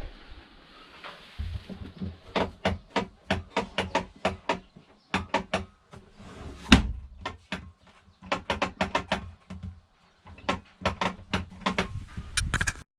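A long run of sharp, irregular clicks and knocks, often in quick clusters, with one louder knock about seven seconds in: hands handling the plastic parts of a Thetford camper cassette toilet, its cassette and service hatch.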